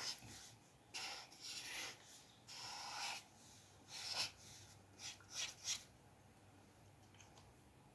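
A drawing tool scratching across paper in a run of short strokes, several in the first six seconds, then a pause.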